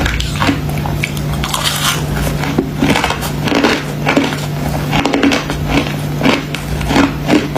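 Crunchy freezer frost ice being bitten and chewed: a string of crisp crunches, about two a second, over a steady low hum.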